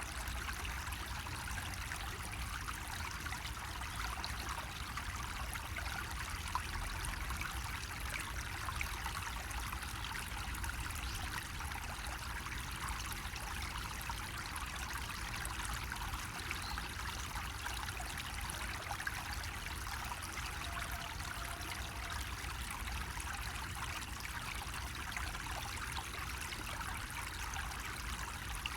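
Water running from a bamboo spout, a steady, unbroken trickle and splash with a low rumble underneath.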